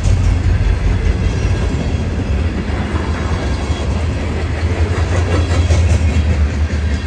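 Train passing, a steady heavy low rumble with the rattle and clicks of wheels over the rails, the clicks clearest about five to six seconds in.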